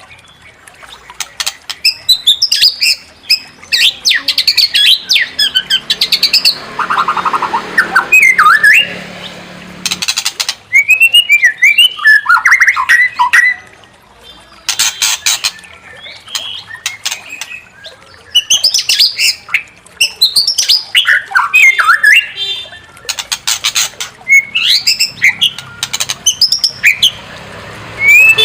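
White-rumped shama (murai batu) singing a loud, varied song of whistled glides and trills, broken several times by short harsh rattling calls.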